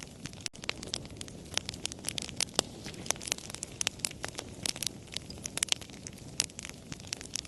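Wood campfire crackling, with frequent irregular sharp pops and snaps over the low, steady rush of the flames. The sound drops out for a split second about half a second in.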